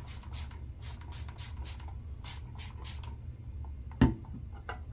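A quick run of short, scratchy strokes, about four a second, then a single sharp knock about four seconds in.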